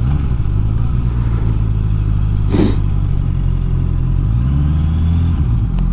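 Honda CBR650R's inline-four engine running at low revs while rolling slowly, its note rising and falling once near the end. A short rushing noise comes about two and a half seconds in.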